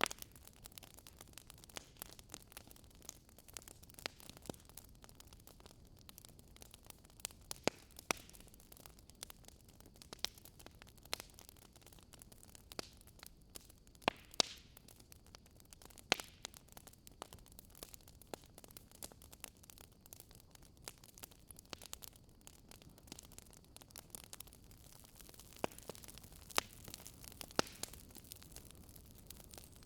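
Wood fire crackling in a fireplace: irregular sharp snaps and pops over a soft steady hiss, with a few louder pops scattered through.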